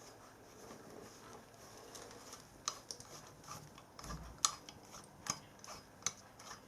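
Light, irregular metallic clicks and ticks as a helicoil-style thread insert is wound by hand into a freshly tapped hole with its insertion tool. The clicks start about two and a half seconds in, with a soft low bump just after the fourth second.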